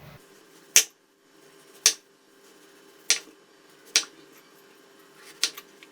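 A kitchen knife cutting through a raw potato and striking the cutting board, five sharp chops about a second apart, squaring the potato off into a rectangular block.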